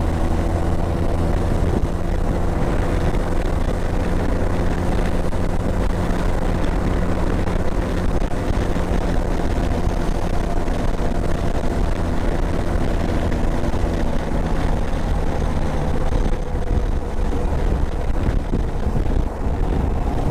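Motorcycle engine running steadily at riding speed, its note changing about sixteen seconds in.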